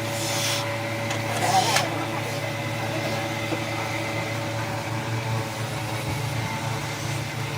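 A steady machine hum with a few constant tones, like an electric motor running, with brief voices near the start.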